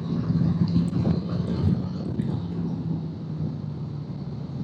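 Motorcycle engine running at steady revs under way, mixed with wind and road noise, easing a little in the second half.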